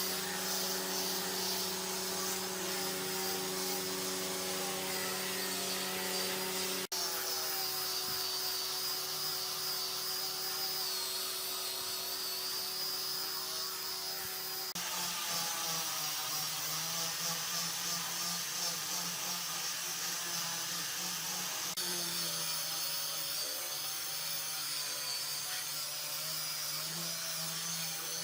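Electric power tool motor running steadily with a high hiss over a constant hum. The hum jumps abruptly in pitch and tone three times, about a quarter, a half and three-quarters of the way through.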